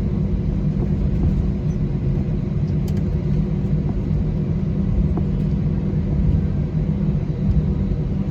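Steady low rumble of an Airbus A320's engines and airframe, heard from inside the passenger cabin.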